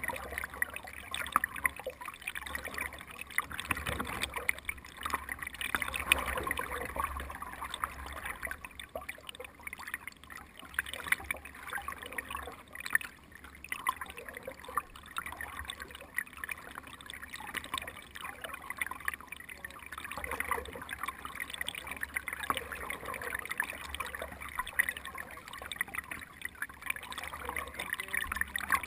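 Water splashing and trickling: a steady, irregular patter of small splashes.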